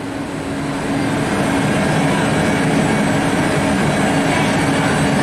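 Container freight train hauled by an electric locomotive rolling through the station toward the listener. Its rumble grows louder over the first second and then holds steady, with several steady tones over it.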